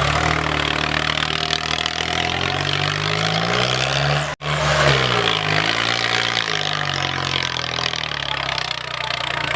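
Swaraj 855 tractor's diesel engine revving up, its pitch climbing over about two seconds, then dropping back and settling to a lower, steady run. The sound cuts out for an instant about four seconds in.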